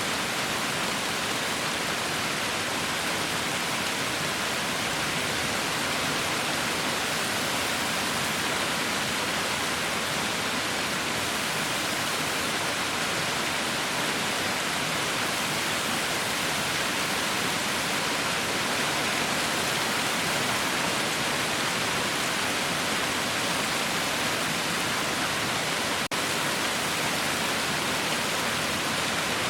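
Heavy rain falling in a steady, dense hiss with no individual drops standing out.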